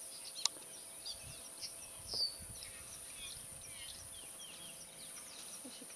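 Small birds chirping in the bush: many short, high, falling chirps scattered throughout, over a steady high hiss, with one sharp click about half a second in.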